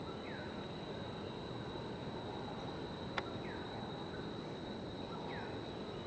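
Three short, falling bird calls about two seconds apart over a steady high-pitched whine, with one sharp click about halfway through.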